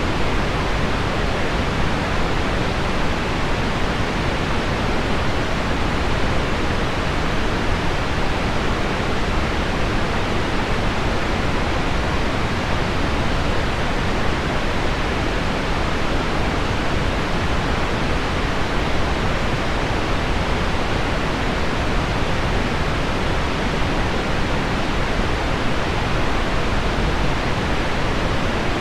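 Steady pink noise blended with heavy rain on window glass: an even, unbroken hiss weighted toward the low end, with no separate drops or changes standing out.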